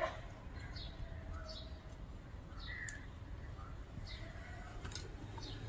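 Mynah bird chirping: a scattered series of short, high chirps, some with a quick downward slide.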